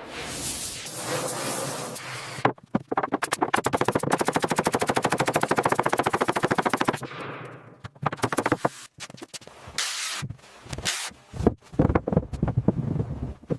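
A power tool hammering in a fast, even rattle of strikes for about four and a half seconds, starting a couple of seconds in, then winding down. Scattered knocks and clatter follow.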